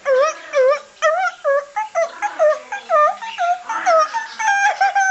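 A parrot calling: a string of short whining calls, each dipping and then rising in pitch, about two a second, then a faster run of more varied calls.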